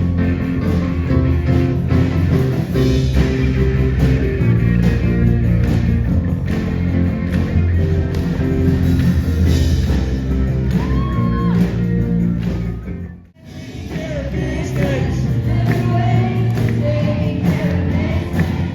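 Rock band music with electric guitar, bass, drums and singing. The music cuts out for a moment about thirteen seconds in, then resumes with a sung vocal line.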